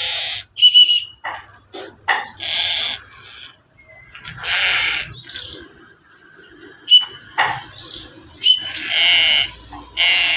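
Young crow giving harsh, rasping begging calls while being hand-fed, about six calls of half a second to a second each. Short high whistled chirps come in between them.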